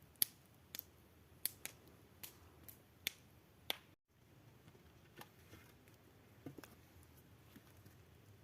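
A series of sharp, irregular clicks and snaps over a low hiss, cutting out briefly about halfway through and continuing fainter afterwards.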